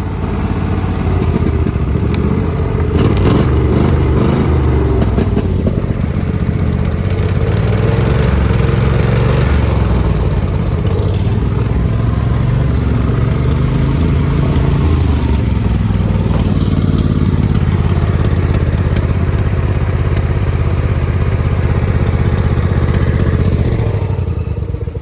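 Riding lawn mower engine running hard and steady while the mower is driven, with a couple of sharp knocks along the way. The engine noise drops away near the end.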